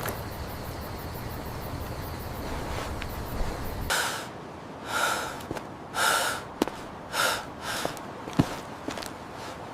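A steady low rumbling hum of ambience, cut off about four seconds in. It is followed by a series of five or six short, sharp breaths from a person, with a few faint clicks among them.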